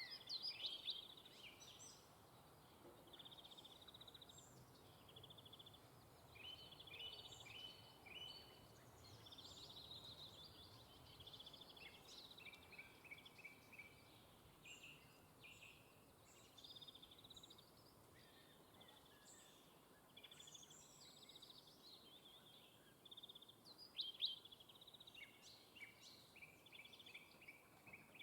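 Songbirds chirping and calling in quick, varied high phrases and short trills, faint throughout, with louder calls near the start and again a little before the end.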